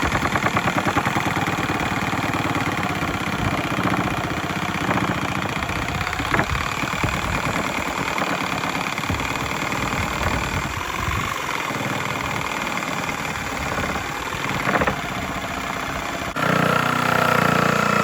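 An engine running steadily with a rapid, even pulse. Near the end it gives way to a louder, steadier hum.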